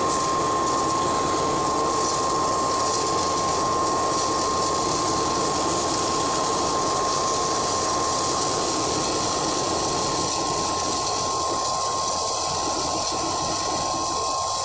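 Mini 3-in-1 rice mill and masala grinder running steadily while grinding dried turmeric into powder on its second pass through a finer sieve: an even mechanical noise with a steady high whine.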